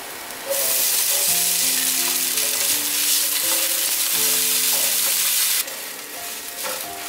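Diced dried tofu, minced ginger and shiitake sizzling in hot oil in a frying pan. A loud, even sizzle starts about half a second in and drops off suddenly near the end.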